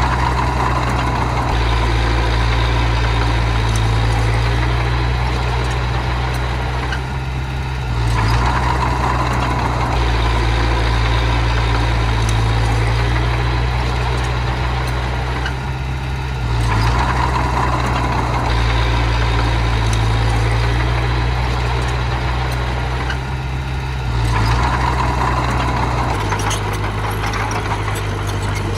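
Diesel engine of heavy earthmoving machinery running steadily, swelling under load about every eight seconds, then easing back.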